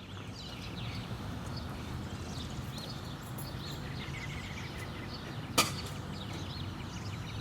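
Birds chirping over a low, steady background rumble, with one sharp click about two-thirds of the way through.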